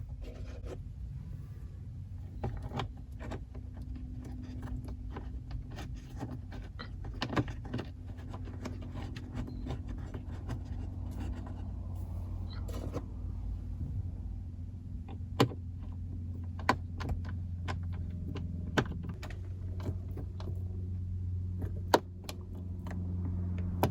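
Scattered small clicks and taps of plastic dash trim and a screwdriver as a BMW 3 Series instrument cluster is pushed back into place and its upper Torx screws are driven in. A steady low hum sits underneath and grows a little stronger near the end.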